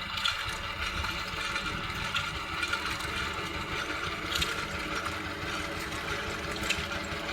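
Vintage stationary engine running steadily with a fast, even beat.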